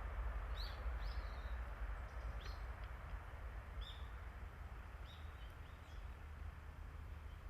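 Small birds chirping in short calls, about six times, over a low rumble that slowly fades.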